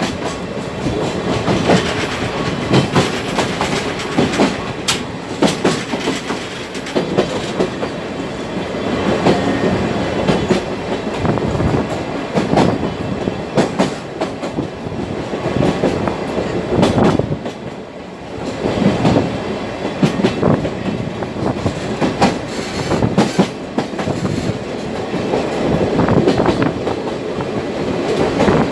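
Sagano trolley train running along the track: a steady rumble of wheels on rail with repeated clacks as the wheels cross rail joints. The noise eases briefly about two-thirds of the way through, then builds again.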